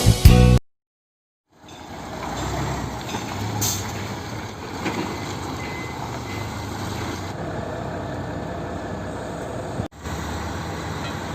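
Mitsubishi Fuso Super Great truck's diesel engine running steadily, with a brief hiss of air a few seconds in.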